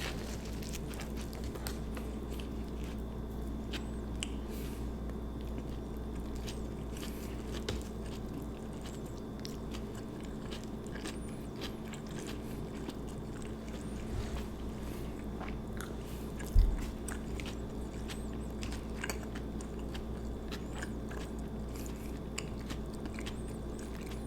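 Close-miked biting and chewing of an Italian sub sandwich, with wet mouth clicks and crunches, over a steady low hum. One low thump comes about two-thirds of the way through.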